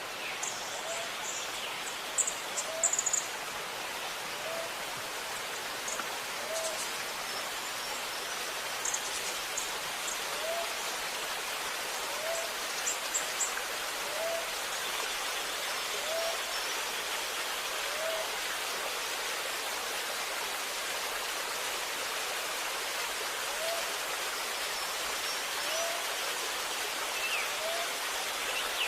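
Water running and gurgling steadily with birds calling over it: a short low note repeats about every second or two, and brief high chirps come in the first half.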